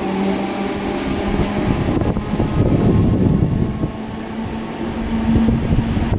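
Class 313 electric multiple unit running at the station: a steady rumble with an electric hum that steadies about four and a half seconds in.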